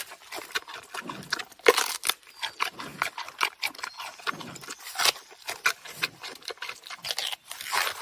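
Giant panda chewing a fresh bamboo shoot: a quick, irregular run of crisp crunches and snaps, a few louder than the rest.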